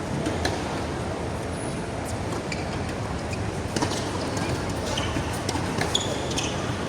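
Steady outdoor background noise with a few faint, scattered clicks.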